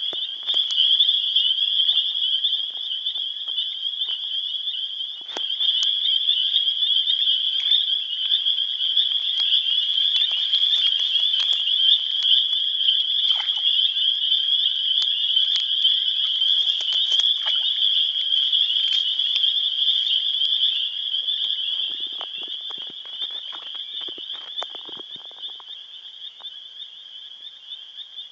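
A chorus of cicadas giving a continuous, high, shrill drone that holds steady, with scattered faint clicks; it grows somewhat quieter over the last several seconds.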